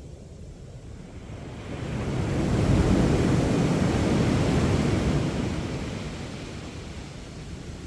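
Sea waves breaking on a sandy beach: one wave swells about two seconds in, crashes and washes up over the next few seconds, then fades. A low rumble of wind on the microphone runs underneath.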